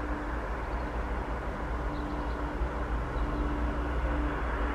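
Swiss double-deck electric passenger train approaching on an open main line: a steady rumble that grows slowly louder as it nears.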